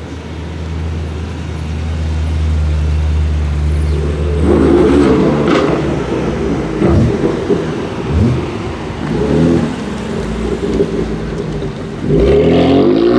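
BMW M performance cars pulling away one after another: a steady low engine note for the first few seconds, then engines revving up and easing off several times as the cars accelerate past, with a louder burst of acceleration near the end.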